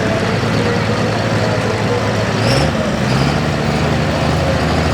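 Diesel 4x4 pulling truck's engine running loud and steady, with a brief hiss about halfway through.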